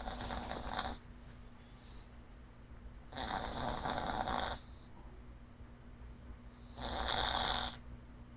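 A small dog snoring in its sleep: slow, rhythmic snores, one ending about a second in, then two more about three and a half seconds apart.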